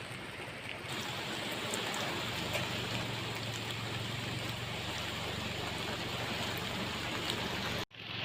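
Steady heavy rain falling, a dense even hiss, over a low steady hum. It grows louder about a second in and cuts out briefly near the end.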